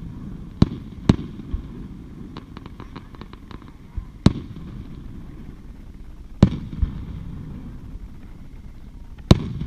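Aerial firework shells bursting at a distance: about eight sharp bangs spread a second or more apart, five of them loud. A run of faint crackles comes in the middle.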